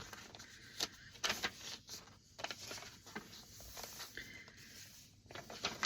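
Paper pages of a handmade journal being handled and turned: soft rustles and light taps, several brief strokes.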